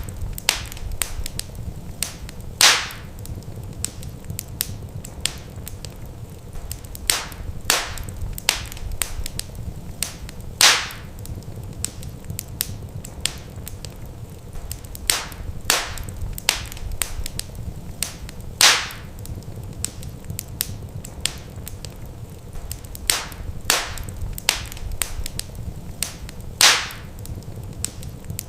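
Wood fire crackling in a fireplace: frequent small snaps and sharp pops over a low steady rumble, with a louder pop every several seconds.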